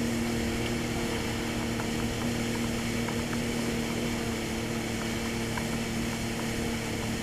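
Jet ski engine running at a steady speed, an even drone that holds one pitch throughout, over a rough rushing noise.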